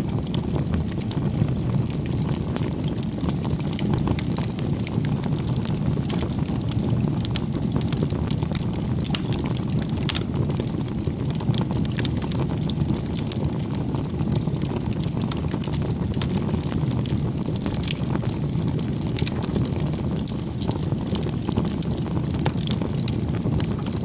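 Wood fire burning: a steady low rumble of flames with frequent small crackles and pops scattered through it.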